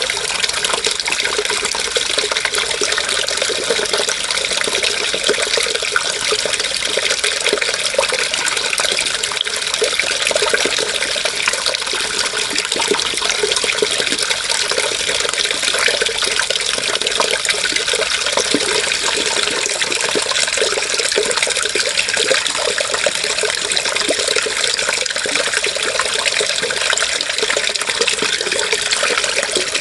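Running water, a steady splashing rush that never lets up, with its sound mostly in the upper range.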